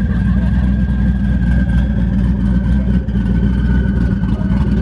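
Loud modified car engine idling, with a steady high whine on top that drifts slightly lower.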